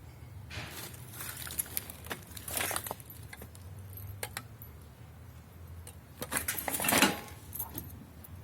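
Irregular clinking and rattling of small metal objects being handled, with a louder brief scraping rush about seven seconds in.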